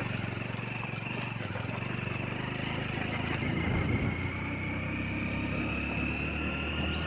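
Motorbike engine running steadily while riding, growing slightly louder about halfway through.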